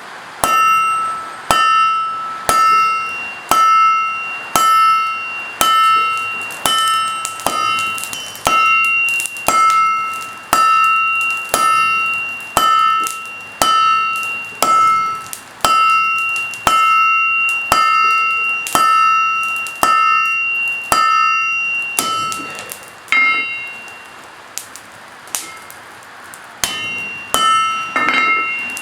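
Blacksmith's hammer striking steel on an anvil, about one blow a second, each blow leaving the anvil ringing at the same pitch. The blows stop for a few seconds near the end, then come again, some in quick succession.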